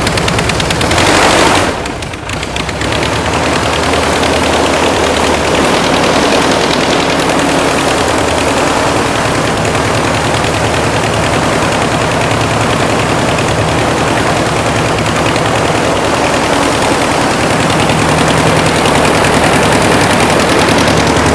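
Piston engine, newly converted to fuel injection, running on its first start: a loud rapid firing that dips briefly about two seconds in, then settles into steady running.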